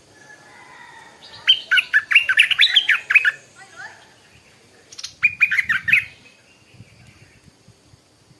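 Stripe-throated bulbul singing: a phrase of quick, bubbling whistled notes lasting about two seconds, then a shorter phrase of about a second starting about five seconds in.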